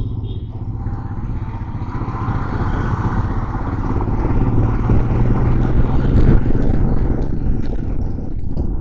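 Motorcycle engine running while riding, with a steady low hum. It grows louder to a peak about six seconds in, then eases off.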